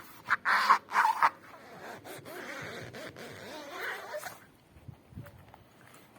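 A pool creaking and squeaking: two short squeaks in the first second or so, then a longer wavering squeal that dies away about four and a half seconds in. This creak is taken as a sign that the pool is ready to be filled with water.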